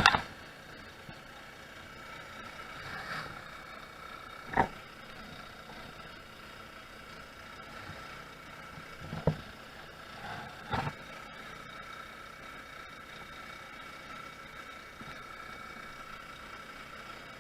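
Honda Zoomer scooter's small single-cylinder engine running steadily at road speed, with a steady whine and road noise, broken by a few short sharp knocks.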